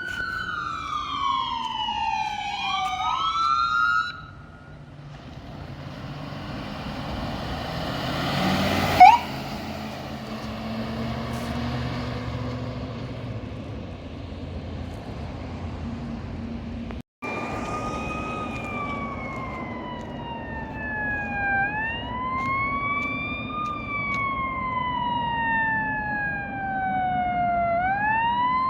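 Electronic sirens on emergency vehicles responding: at first two sirens sweeping downward over each other, then a heavy vehicle's engine and road noise with a short loud chirp about nine seconds in. In the second half a single wail siren rises quickly and falls slowly, about every six seconds.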